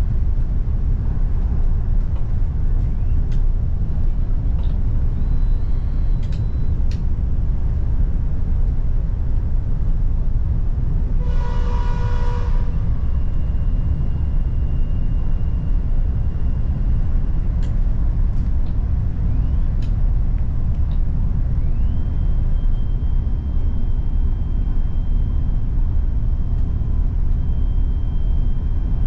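Steady low rumble of an electric multiple-unit train running, heard inside the passenger carriage. About twelve seconds in, a short pitched tone sounds for just over a second, and a few faint clicks are heard.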